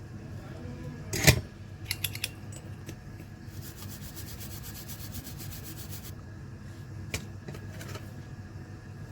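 Clicks and knocks from handling tools and small laptop parts at a repair bench: one sharp knock, a few quick clicks, then a run of rapid, even ticking lasting a couple of seconds, and another click.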